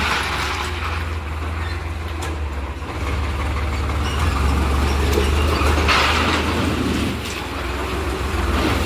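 Farmtrac tractor's diesel engine running with a steady low drone.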